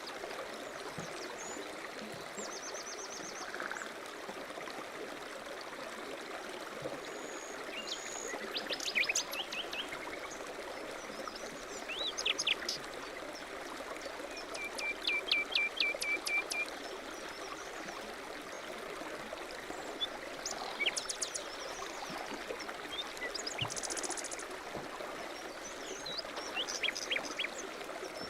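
A stream running steadily, with small songbirds chirping over it now and then, including a quick trill of about ten repeated notes midway through.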